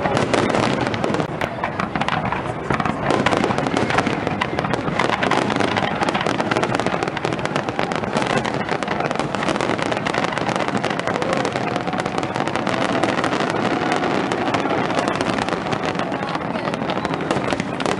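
Aerial fireworks display: shells bursting one over another in a continuous barrage, a dense run of rapid pops and crackles with no break.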